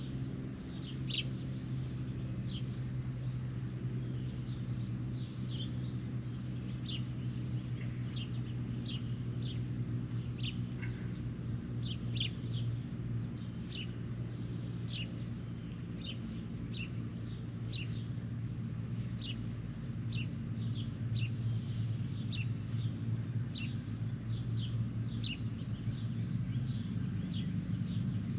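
Birds chirping: many short, sharp chirps repeated irregularly over a steady low hum.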